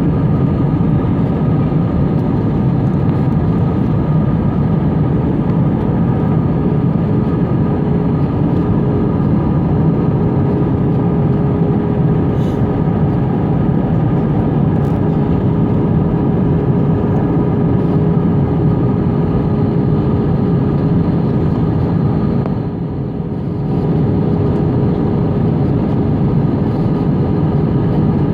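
Steady airliner cabin noise during the approach: the engines and the rush of air past the fuselage, heard from inside the cabin as a loud, even roar with a steady hum in it. It dips briefly about five seconds before the end.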